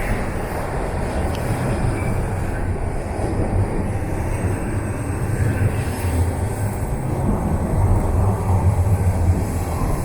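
Toronto TTC subway train in motion between stations, heard from inside the car: a loud, steady rumble of wheels on rail and running gear.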